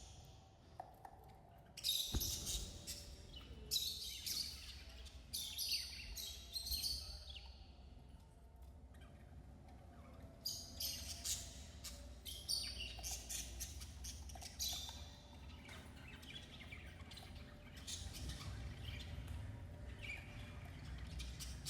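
Budgerigars chirping and chattering in quick clusters of high calls, thinning out for a few seconds in the middle before picking up again.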